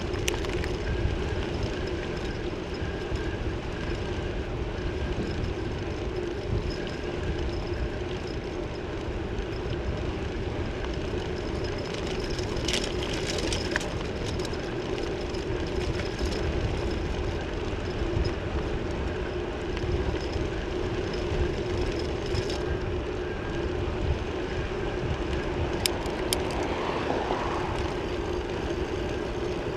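Wind buffeting the microphone of a bike-mounted action camera over a steady hum from a bicycle rolling along, with a few brief clicks about halfway through and near the end.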